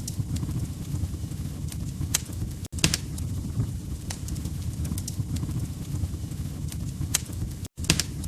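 Log fire in a fireplace crackling, with irregular sharp pops over a steady low rumble of flames. The sound cuts out for an instant twice.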